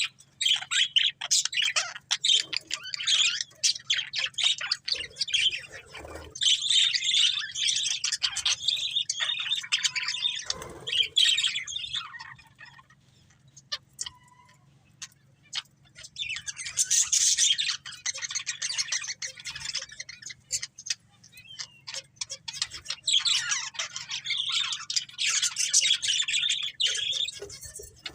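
A pair of budgerigars chirping and chattering in rapid, high-pitched runs. They fall quiet for a few seconds near the middle, then start up again.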